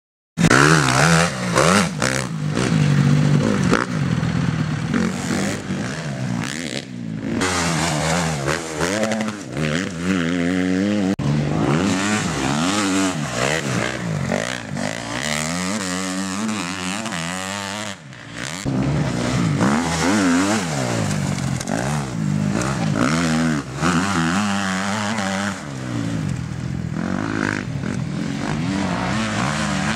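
Motocross motorcycle engines revving hard, which starts suddenly about half a second in. The pitch climbs and falls again and again as the throttle opens and the bikes shift, with a brief drop about halfway through.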